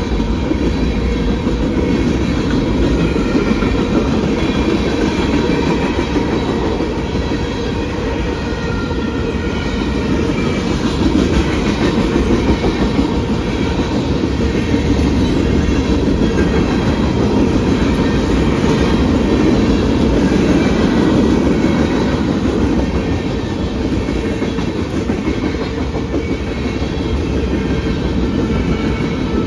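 Railroad cars rolling past steadily on the rails, a continuous train passage with faint wheel tones above the noise.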